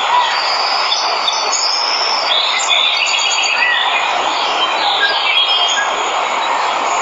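Steady rush of a waterfall, with jungle birds chirping and trilling over it in many short calls.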